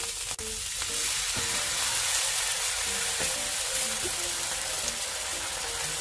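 Preserved mustard greens sizzling in hot oil and water in a wok, with a steady hiss as a wooden spatula stirs them.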